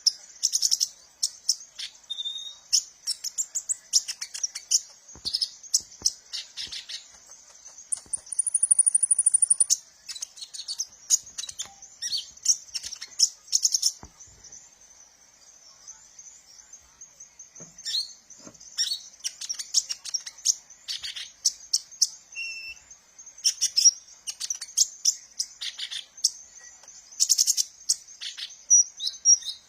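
Kolibri ninja sunbird singing in rapid, high-pitched chirps and twitters, with a brief, higher, louder trill about eight seconds in and a quieter spell midway.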